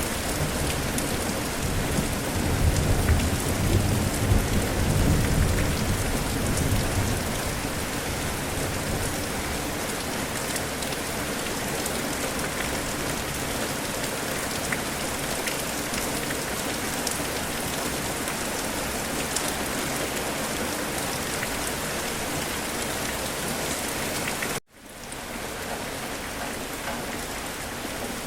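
Steady heavy rain falling, with a low rumble of thunder swelling a couple of seconds in and fading by about seven seconds. Near the end the sound cuts out for an instant and comes back slightly quieter.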